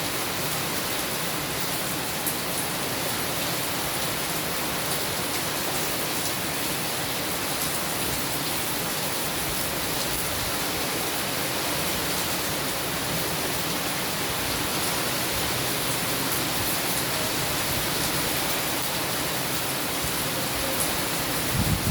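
Steady heavy rain falling, an even hiss with scattered drop ticks. A low rumble of thunder begins right at the end.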